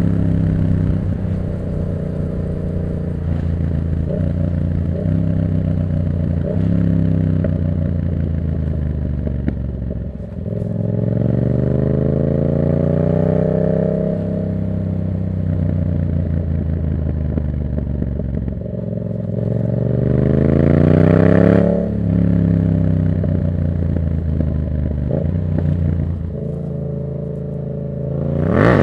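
Yamaha MT-07's 689 cc parallel-twin breathing through a Black Widow exhaust with the dB killer removed, revving up and dropping back through gear changes while riding. The loudest rev comes about two-thirds of the way in, and a sharp rev rises right at the end.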